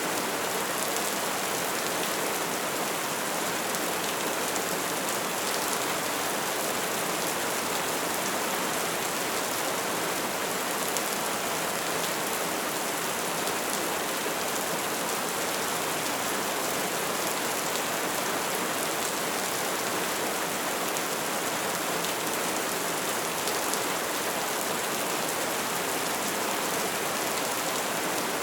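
Bonfire burning with a steady hiss of flames and dense, continuous small crackles, with no single loud pop standing out.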